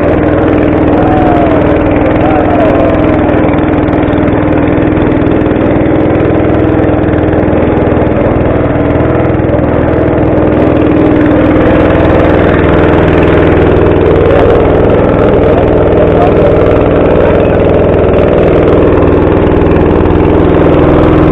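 An engine running steadily at an even speed, loud and close.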